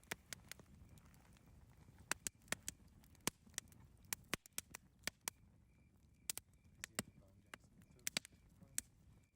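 Campfire crackling: irregular sharp pops and snaps of burning wood, several a second at times, over a faint low rumble.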